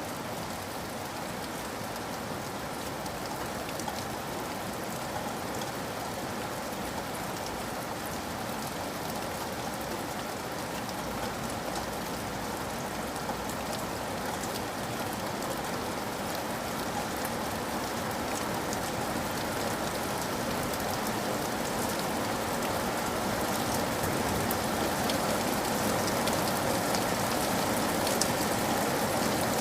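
Steady rain with many small drops ticking, growing gradually louder through the second half.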